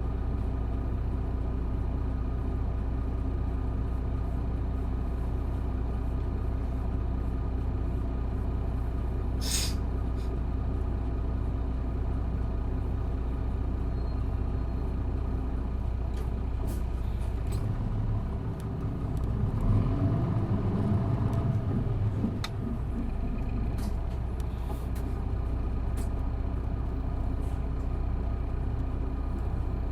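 Isuzu Erga city bus's diesel engine running steadily under way, heard from inside the bus, with a brief hiss of air about ten seconds in. Around two-thirds of the way through the engine note dips, then climbs and grows louder for a few seconds as the bus pulls harder, before settling back to a steady drone.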